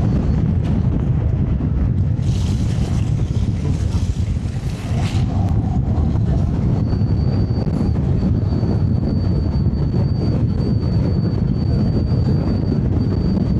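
Wind buffeting the camera microphone and road rumble while riding an electric scooter, a steady low roar. A hiss rises for a few seconds early on, and a thin high-pitched whine comes in about halfway through and holds.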